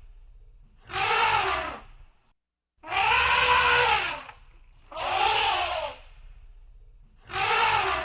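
Elephant trumpeting: four calls in a row, each about a second long and rising then falling in pitch, with a low rumble beneath.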